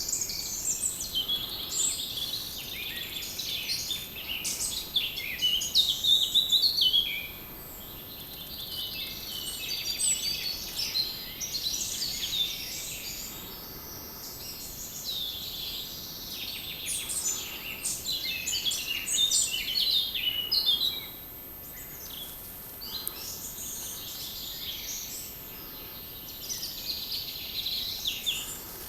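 Several songbirds singing and chirping at once in summer woodland, a busy overlapping chorus of quick high chirps and trills that swells and thins in waves.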